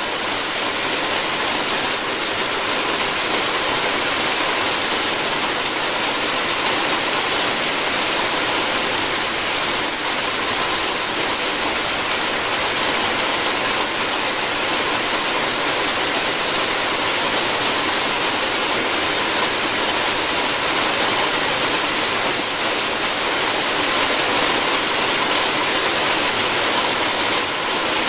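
Rain falling steadily on a roof, an even hiss that never lets up.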